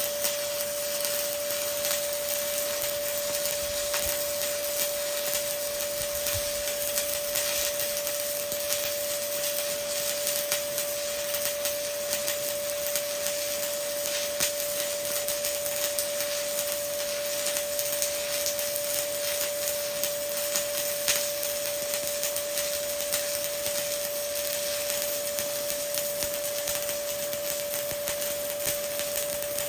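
Stick-welding arc burning steadily with a continuous crackling hiss, an E7018 1/8-inch rod run at 120 amps laying the first (root) pass overhead on plate with a backing strip. A steady tone sits behind it throughout.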